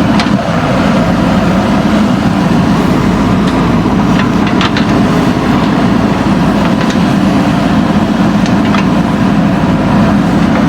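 Backhoe loader's diesel engine running steadily under work, with a few light clicks scattered through it.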